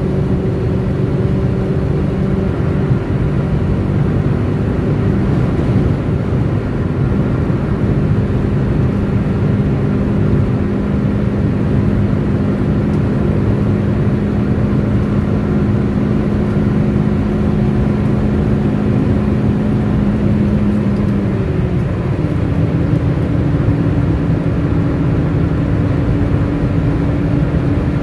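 Chevrolet Corsa Hatch 1.4 Econoflex four-cylinder engine running steadily at high speed on a top-speed run, heard from inside the cabin over a constant rush of road noise. About 21 seconds in, the engine note shifts to a different steady pitch.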